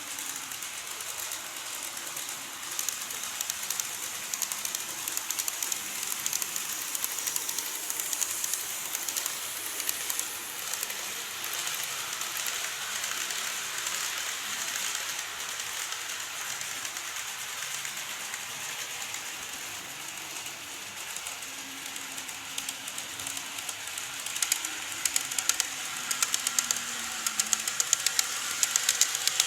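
Model train running on layout track: wheels clicking rapidly over the rail joints with a steady running hiss and a faint motor hum. The clicks get louder about three-quarters of the way through.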